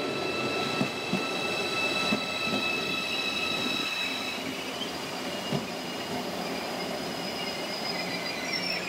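Train wheels squealing on the rails in several steady high tones over a rumble of the moving train, with a few sharp knocks; about halfway through the squeal shifts to a different pitch.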